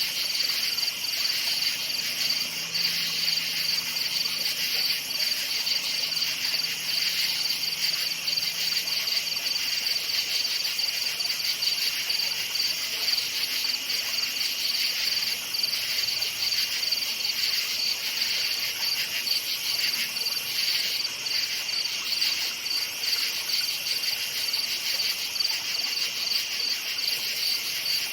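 A chorus of crickets chirping steadily, many overlapping fast pulsing trills forming a continuous high-pitched shimmer.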